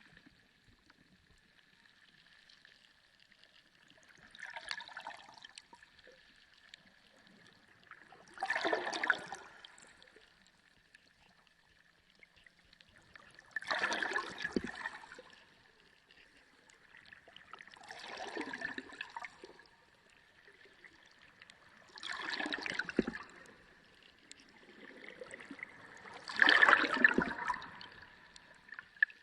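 Underwater sea sound: six swells of water noise, each about a second long, coming roughly every four to five seconds, over a faint steady high tone.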